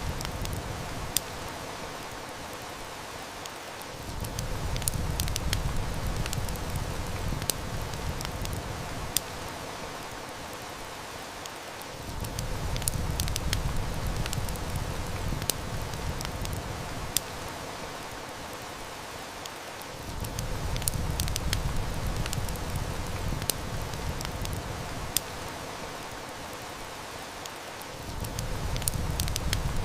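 Heavy rain hissing steadily, with irregular sharp snaps of a crackling wood fire. A low rumble swells and fades away about every eight seconds.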